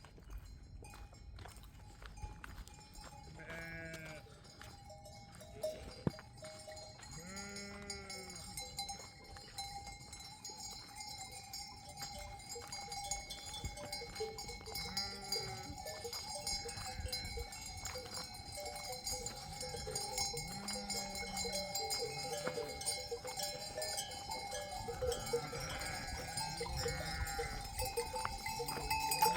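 A flock's neck bells ringing steadily, with occasional bleats from the animals. The sound grows louder toward the end.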